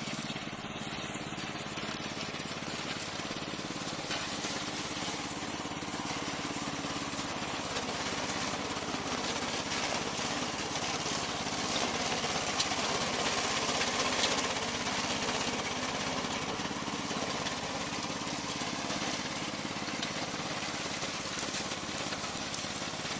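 Remote-controlled slope mower running steadily, a dense, even machine drone.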